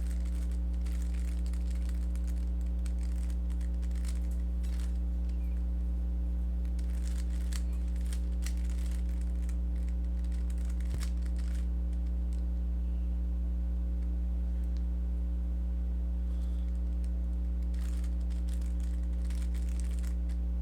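Steady low electrical hum, with faint plastic clicking of a Rubik's cube being turned in short spells.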